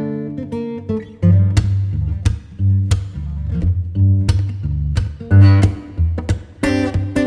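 Background music: acoustic guitar playing plucked and strummed chords over a bass line.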